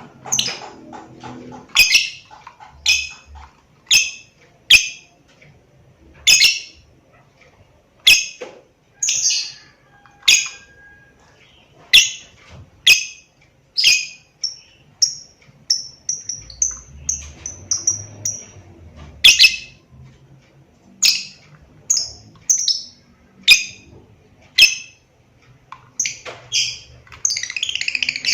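Lovebird in full song, giving loud, sharp chirps about once a second. In the middle it breaks into a quicker run of short, high chirps, and near the end comes a dense chattering burst.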